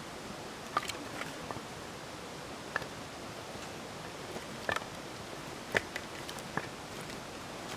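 Irregular sharp metallic clicks and taps, about seven over several seconds, over a steady background hiss: the parts of a metal firewood stand being fitted together.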